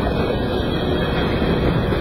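Covered hopper cars of a freight train rolling past close by at about 30 mph: steady noise of steel wheels on the rails.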